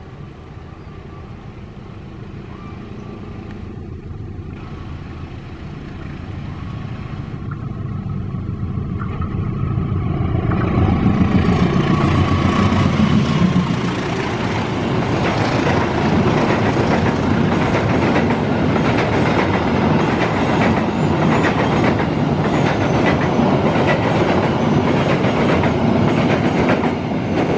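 A CC203 diesel-electric locomotive hauling an express passenger train at speed. Its engine grows steadily louder as it approaches and is loudest about eleven seconds in; after that the coach wheels clatter over the rail joints in a steady run as the train passes.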